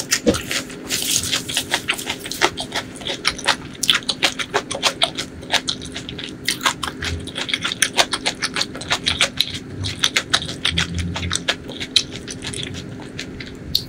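Close-miked chewing of a mouthful of food: irregular wet mouth clicks and lip smacks, several a second.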